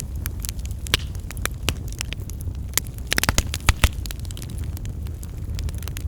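Bonfire burning: wood crackling and popping in sharp, irregular snaps over a steady low rumble, with a quick flurry of louder pops around the middle.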